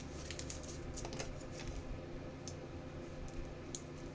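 Trading cards being handled between announcements: light clicks and rustles of card stock as cards are slid and flipped, over a low steady hum.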